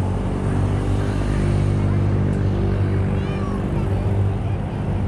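An electric train running past with a steady low motor hum, fading slightly near the end. A few short high chirps come through about three seconds in.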